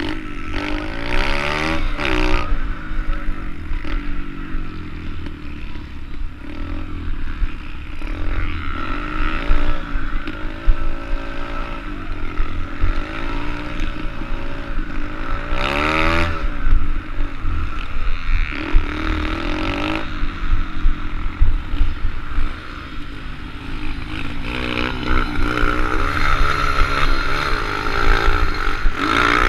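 Small four-stroke pit bike engines (SSR110 class) revving up and down repeatedly through a race, the pitch climbing and dropping over and over with sharp surges in revs.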